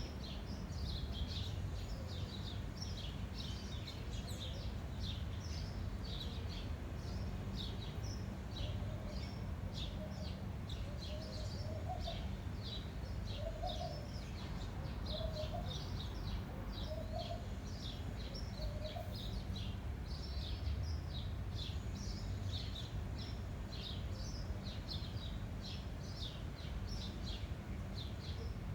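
Birds chirping rapidly and without pause, with a steady low wind rumble underneath. In the middle, a lower bird call repeats about six times, roughly once every second and a half.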